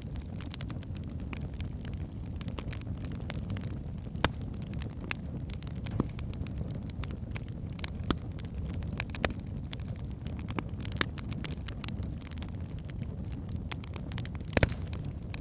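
Wood fire burning in a fireplace: a steady low rumble of flames with irregular sharp crackles and pops from the burning logs, a few louder pops about four seconds in and near the end.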